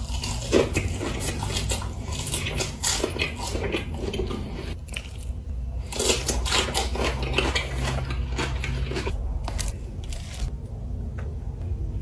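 Close-miked eating sounds: food and its packaging being handled with clattering and crinkling, mixed with bites and crunchy chewing, in dense irregular clusters.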